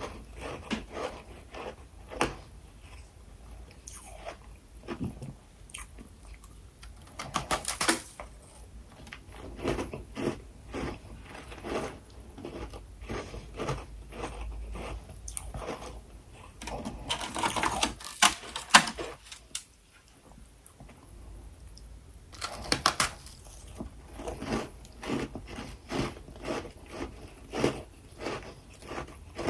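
Freezer frost being bitten and chewed close to the microphone: a run of crisp, irregular crunches and crackles, with several louder bursts of crunching and a short lull about two-thirds through.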